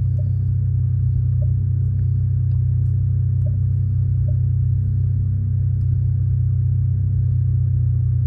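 2020 Dodge Charger SXT's 3.6-litre V6 idling with a steady, even low rumble.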